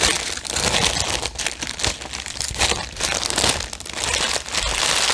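Plastic packaging of a diamond painting kit crinkling and rustling in irregular bursts as it is handled.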